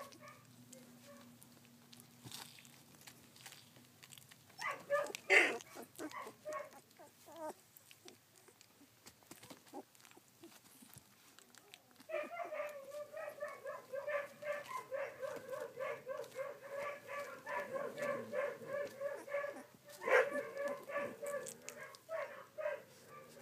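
Sixteen-day-old rough collie puppies whining and squealing: a short burst of cries about five seconds in, then from about halfway through a steady run of rapid, high-pitched cries to the end.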